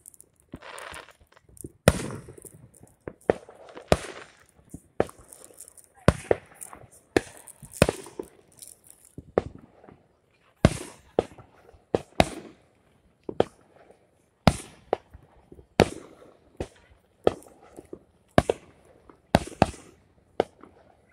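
Aerial firework shells bursting one after another, a sharp bang about once a second, some in quick pairs, each trailing off in a short echo.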